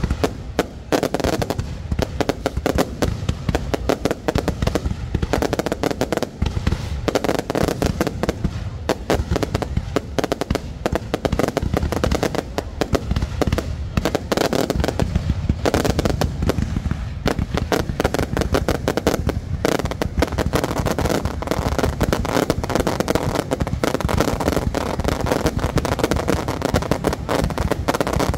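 Aerial fireworks display: a dense, unbroken run of shell bursts and crackles, with heavy low booms underneath.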